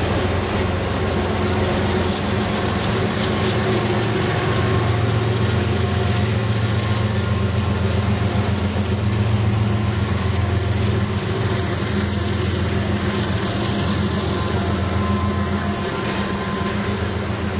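Train rolling past on the rails: a steady low rumble with fast, continuous wheel clatter.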